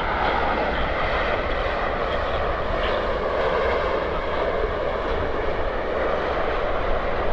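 Air France Boeing 777-200ER's jet engines, a steady, even rushing noise as the airliner lands. A low wind rumble on the microphone runs underneath.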